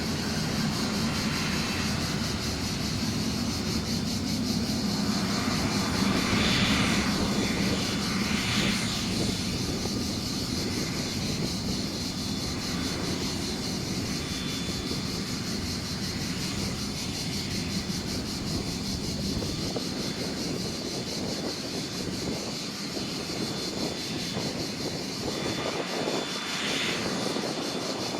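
Cessna Citation CJ3 business jet's twin Williams FJ44-3A turbofans running steadily: a low rumble under a steady high whine.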